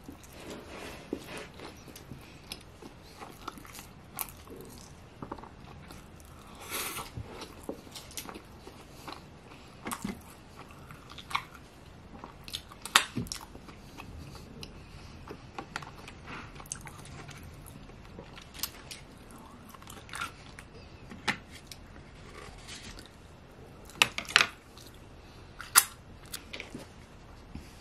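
Close-up eating sounds of a mouthful of sushi roll being chewed: soft crunches and wet mouth clicks, with a few louder smacks near the end.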